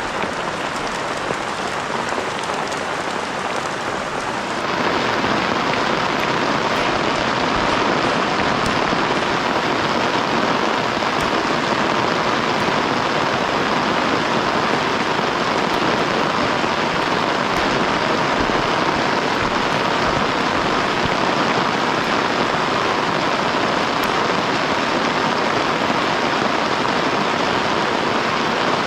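Heavy rain falling in a steady hiss, growing louder and brighter about four and a half seconds in and then holding steady.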